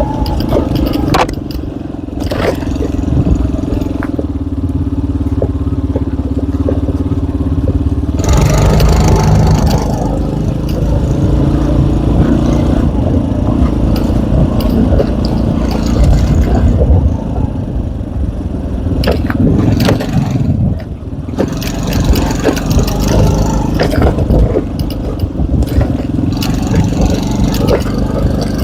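K Moto ATX motorcycle engine running under way on a climb. The note is steady at first, then turns rougher and shifts in pitch after about eight seconds, with bursts of rushing noise now and then.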